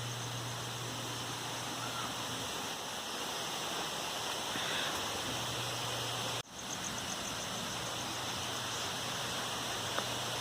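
Steady background hiss, with a momentary dropout about six and a half seconds in.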